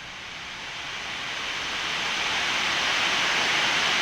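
Steady rushing hiss of air on a Boeing 787-9 flight deck in flight, swelling steadily louder and levelling off near the end.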